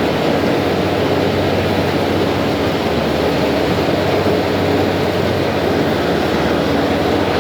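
Thames Clipper catamaran river bus under way: a steady low drone from its engines over an even rushing noise.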